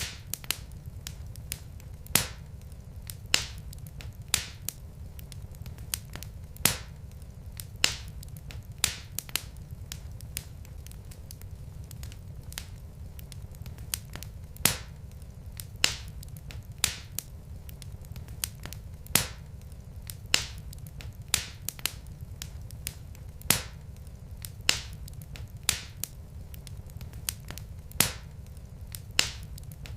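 Logs burning in a fireplace, crackling with sharp pops at irregular intervals, about one or two a second, over a low steady rumble.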